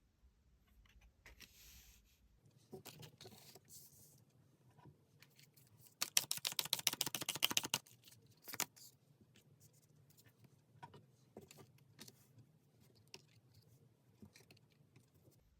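Tarot cards being shuffled and handled: soft scattered clicks and scrapes, with a fast run of card clicks lasting nearly two seconds about six seconds in, like a riffle or bridge shuffle.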